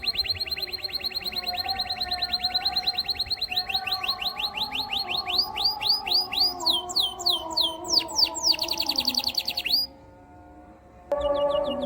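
Canary singing: a fast trill of rapidly repeated high notes that slows into separate, louder sweeping notes, then breaks off for about a second near the end before starting again.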